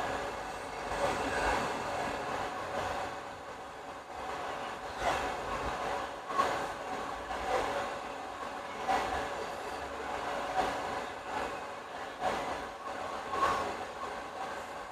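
Hair scissors snipping at irregular intervals, a sharp click every second or so, over a steady background rumble.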